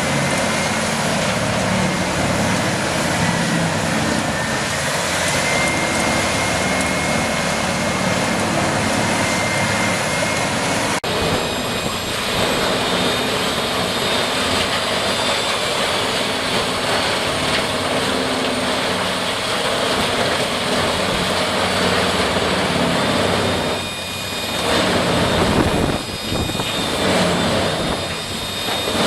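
Heavy wood-processing machinery running steadily with a loud, dense noise and a high whine. The sound changes abruptly about 11 seconds in to another machine with a higher whine, which briefly dips in level a few times near the end.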